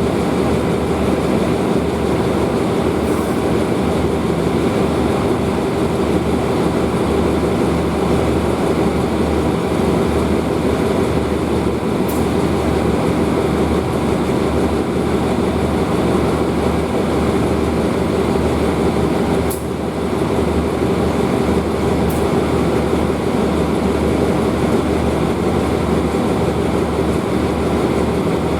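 State Railway of Thailand train running with a steady rumble and hum, with a few faint clicks.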